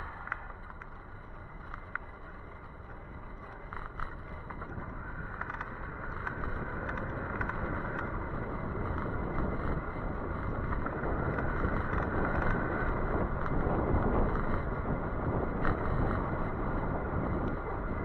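Rushing wind and tyre noise from an electric bike being ridden, growing gradually louder, with a few faint clicks.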